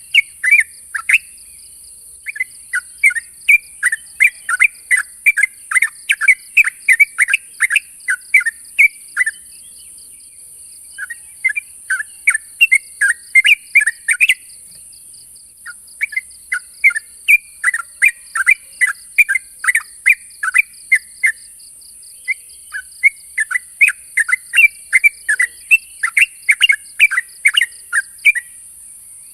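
Yellow-vented bulbul (trucukan) giving its rival-challenging call: runs of quick, bubbly chattering notes in bouts, with brief pauses between them.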